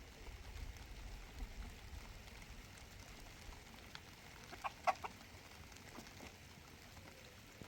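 Chicken clucking: a quick run of three or four short clucks about halfway through, over a faint low rumble.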